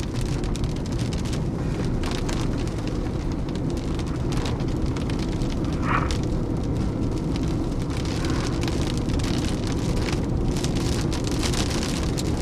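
Steady rain and wind noise on a storm chaser's car, with scattered sharp taps of drops or small stones striking the body.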